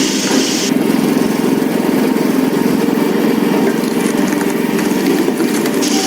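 Log-splitting machine's motor running steadily with an even, fast pulse; a higher hiss drops away under a second in and comes back near the end.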